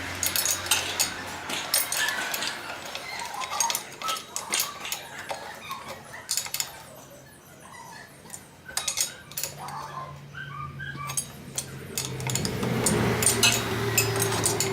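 Irregular sharp metallic clicks and clinks from tools or parts being handled, mixed with short high squeaks. A low steady hum comes in about two-thirds of the way through.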